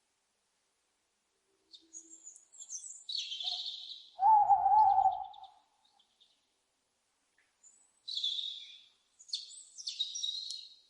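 An owl hooting once, a single wavering call about a second long, starting about four seconds in. Before and after it come high, scratchy bird calls in three short bouts.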